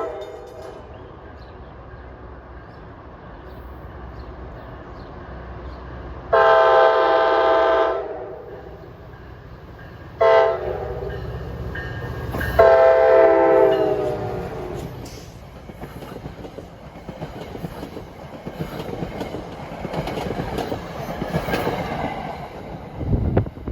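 NJ Transit PL42AC diesel locomotive's multi-chime air horn sounding a long blast, a short one and a final long one, closing out the standard long-long-short-long grade-crossing signal. Then the train passes close by, with wheels clattering over the rail joints.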